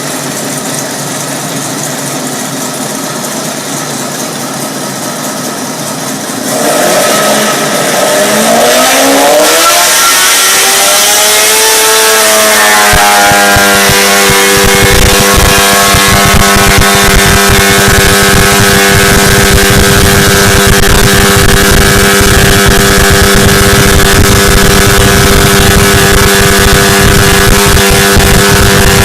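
An engine speeding up: about six seconds in its pitch starts climbing and rises steadily for several seconds, then holds at high revs with a steady, loud, even note.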